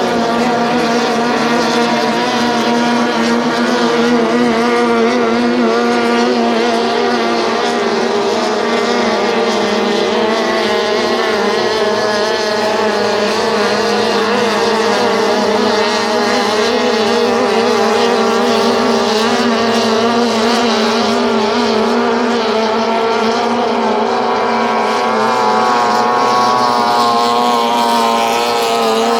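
Racing tunnel boats' outboard engines running flat out: a loud, steady engine drone whose pitch wavers slightly throughout.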